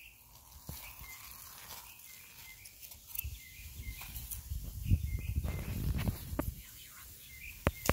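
Small birds chirping over and over, with a low rumble on the microphone from about three to six and a half seconds in and a few sharp clicks near the end.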